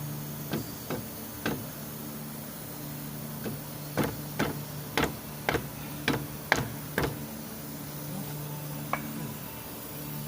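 Repeated sharp knocks: three scattered ones, then a run of about eight at roughly two a second, and one more near the end, over a steady low hum.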